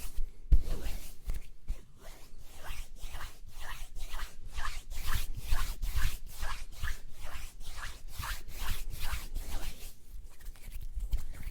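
Close-miked ASMR mouth and hand sounds: a quick run of short clicks and rubs, about three a second, easing off near the end.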